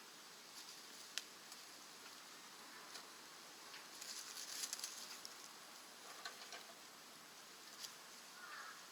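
Faint crackling and ticking of wood burning in a rocket stove. There is one sharp pop about a second in and a short burst of crackles around four to five seconds in.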